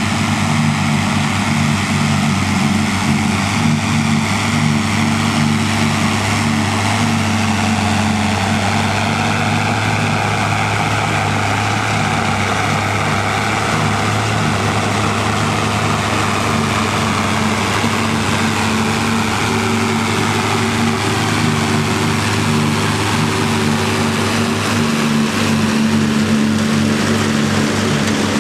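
Tractor diesel engine running steadily under load, with a higher machinery whir over it that slowly shifts in pitch.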